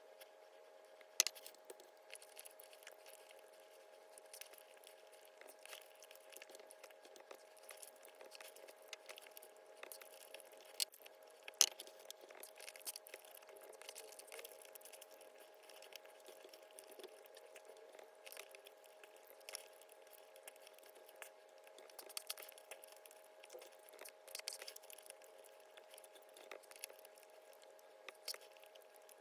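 Close-miked eating sounds of salmon being chewed: many soft, wet mouth clicks and smacks, with a few sharper clicks, over a faint steady hum.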